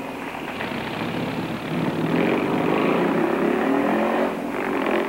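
Convertible car's engine running and revving, louder from about two seconds in, with a pitch that wavers up and down before it drops back near the end.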